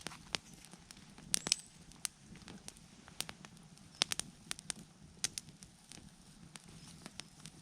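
Campfire of burning wood crackling, with irregular sharp pops and snaps; the loudest come about a second and a half and about four seconds in.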